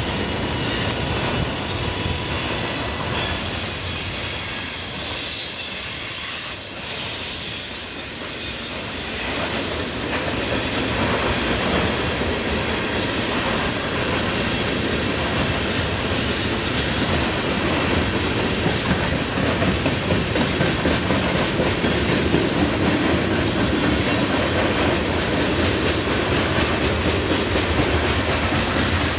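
Trains passing close by: the last cars of an Amtrak Superliner bilevel passenger train, with a high squeal over roughly the first ten seconds, then a long freight train of tank cars rolling by with a steady running noise and the rhythmic clickety-clack of wheels over rail joints.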